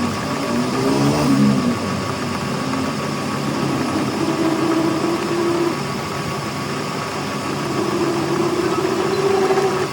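A machine or motor running steadily, with a hum that wavers slightly in pitch.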